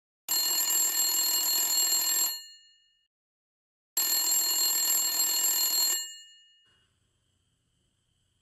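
Mobile phone ringing with an incoming call: two rings of about two seconds each, separated by a short pause.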